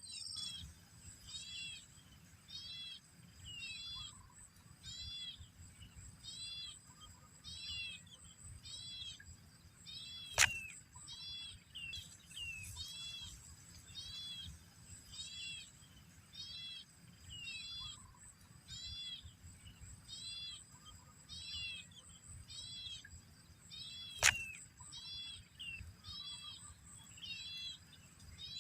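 A bird calling over and over, a short high arched chirp about once a second, over a steady thin high whine. Two sharp clicks, one about a third of the way in and one near the end, stand out as the loudest sounds.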